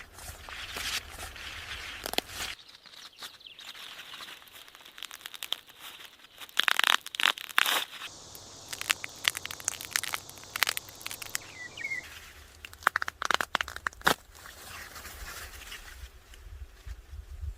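Crinkling, rustling handling noise with irregular clusters of sharp snaps and clicks, the loudest bunched about a third of the way in and again past the middle.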